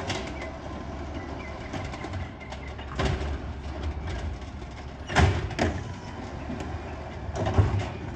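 Garbage truck's engine running steadily, with loud bangs about three seconds in, twice a little after five seconds, and once more near the end.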